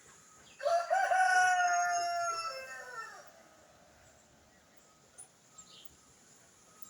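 A rooster crowing once: a single call about two and a half seconds long that drops in pitch at the end.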